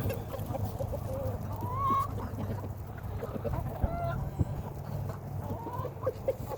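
Backyard chickens clucking, with a few short rising calls about two seconds apart, over a steady low rumble.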